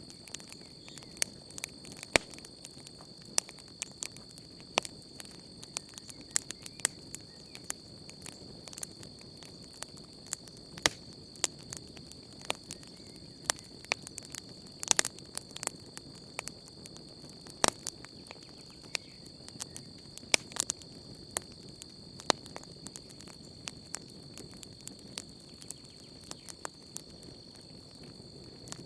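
Wood campfire crackling, with frequent irregular sharp pops, over a continuous high steady trill of crickets.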